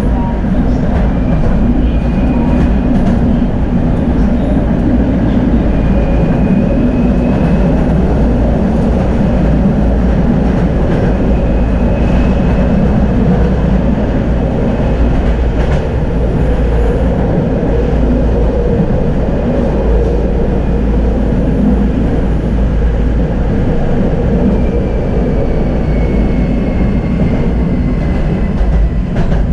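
Tram running along the track: steady rolling noise of steel wheels on rail, with scattered clicks and a faint high whine that comes and goes.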